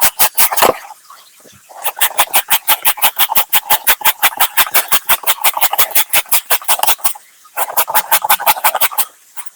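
Rapid, even chopping strokes, about eight a second, in runs with short pauses between them: a knife cutting vegetables on a cutting board.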